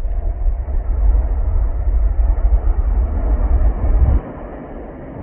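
Jet airliner engines running loud on a departure, with a heavy low wind rumble on the microphone that cuts off suddenly about four seconds in.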